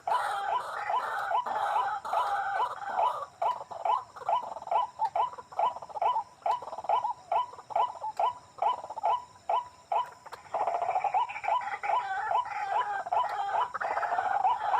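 White-breasted waterhen (ruak-ruak) calling: a dense, repetitive chattering run, breaking into separate clipped notes at about three a second in the middle, then running together into dense chatter again about two-thirds of the way through.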